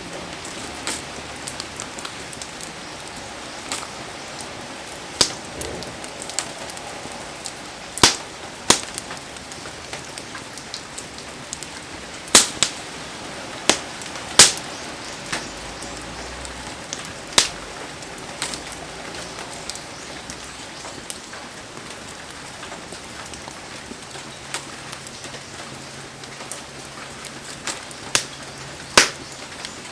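Heavy rain falling in a steady hiss while a wood fire burns, with sharp pops now and then, the loudest about eight seconds in, around twelve and fourteen seconds, and near the end.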